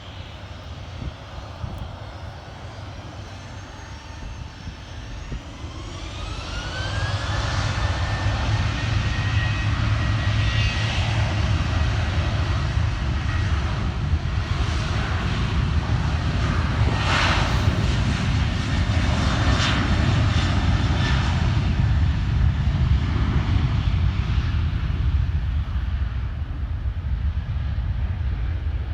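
Jet airliner passing close: its engine whine rises in pitch about six seconds in, then a loud steady rumble that eases off near the end.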